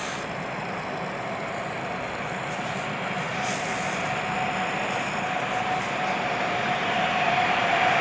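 Electric train approaching along the station track from a distance: a steady running noise with one held tone that comes in about halfway and grows slowly louder.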